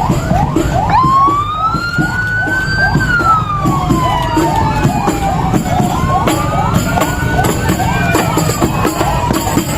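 Two vehicle sirens sounding together: one a fast yelp, about three rising sweeps a second, the other a slow wail that rises and falls twice.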